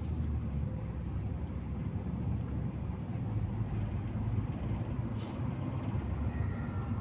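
Interior ride noise of a MAZ-215 articulated city bus on the move: a steady engine and road rumble heard from the passenger cabin, shifting slightly in pitch, with a short hiss about five seconds in.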